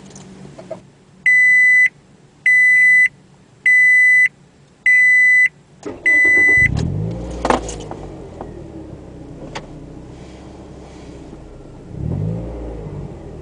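Heard inside the cabin of a 2004 Scion xB with the windows up, a dashboard warning chime beeps five times. Then the 1NZ-FE inline-four starts, about six seconds in, and settles into a steady idle through a Tanabe Concept G axle-back exhaust, with one short rev blip near the end.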